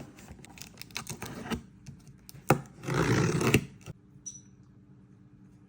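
Handling noise: a run of light clicks and rustling, then a sharp click and a louder rustling burst about three seconds in that ends in another click, after which it goes quiet.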